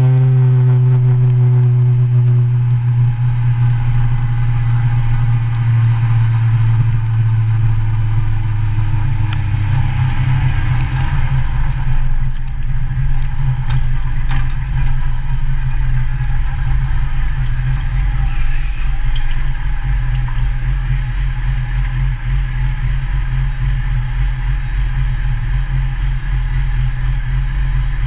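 Motorcycle engine running as the bike slows, its note falling over the first ten seconds or so, then settling into a steady low idle from about eleven seconds in.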